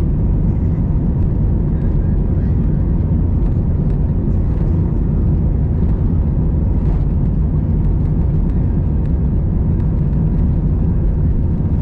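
Steady, loud cabin noise of an Airbus A319's CFM56 engines and airflow, heard from a window seat, with a faint steady whine running over the rumble.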